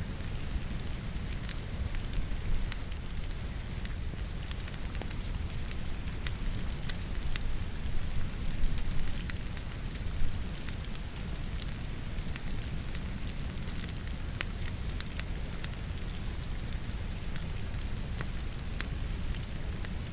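Wood fire burning in a fireplace, crackling and popping with sharp snaps over a steady low rumble, mixed with the steady hiss of falling rain. A few louder pops come around 2 s and between 8 and 10 s.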